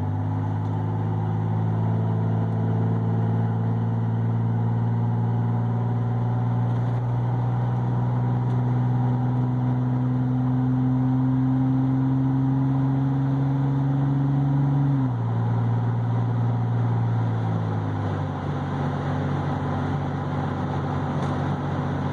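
2007 Ford F-150's 4.2-litre V6, heard from inside the cab through its Aero Turbine performance exhaust, pulling steadily with its note climbing slowly. About two-thirds of the way through the pitch drops suddenly, and a few seconds later it steps down again to a lower, steadier note.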